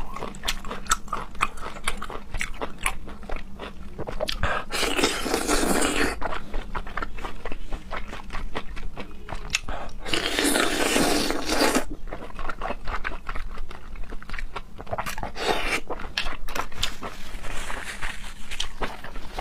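A person chewing and biting seafood close to the microphone: a dense run of rapid wet clicks and crunches. Louder, longer rushes of noise come about five seconds in, again around ten to twelve seconds, and twice more near the end.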